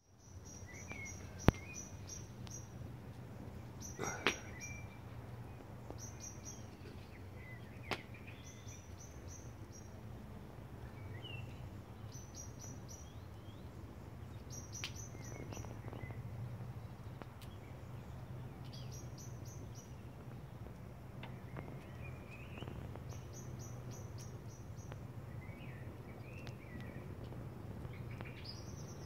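Songbirds chirping: short high phrases repeated every two or three seconds, with lower chirps in between, over a steady low hum. A few sharp clicks come in the first eight seconds.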